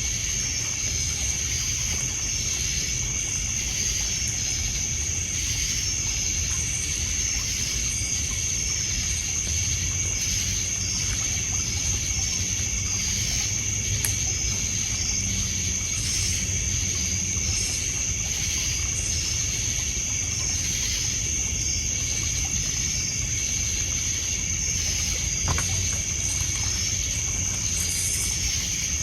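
Night insects, crickets among them, trilling steadily in a constant high-pitched drone with faster pulsing chirps beneath it. Underneath runs a low wash of water lapping on a pebble shore, with an occasional faint pop from a wood fire.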